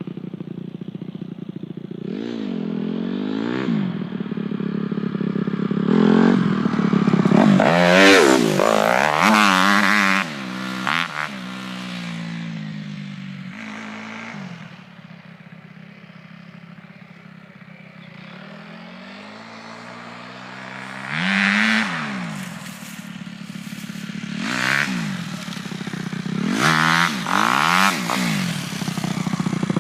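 Dirt bike engine being ridden, its pitch climbing and dropping again and again as the throttle is worked through the gears. It grows loud, fades to a steadier, quieter running in the middle, then comes back louder with more revving near the end.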